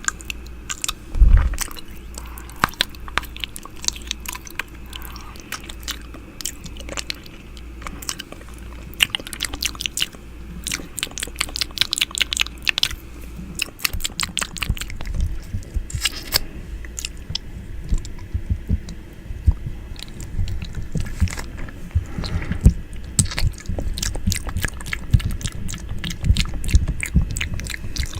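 Close-up wet mouth sounds at the microphone: irregular clicks, licks and nibbling, the ASMR 'ear eating' sound, with one louder thump a little over a second in.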